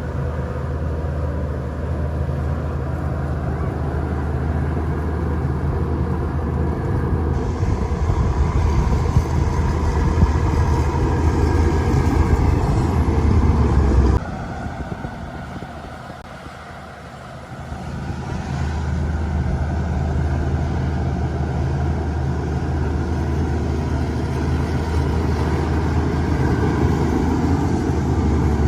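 Shantui DH17-C2 bulldozer's diesel engine running under load while pushing dirt. Its sound builds up, drops suddenly about halfway, and rises again a few seconds later.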